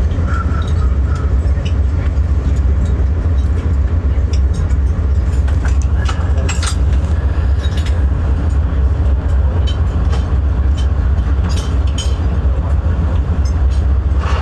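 Passenger train in motion, heard from inside the carriage: a steady, heavy low rumble of the wheels on the track, with scattered clicks, knocks and rattles on a rough stretch of track.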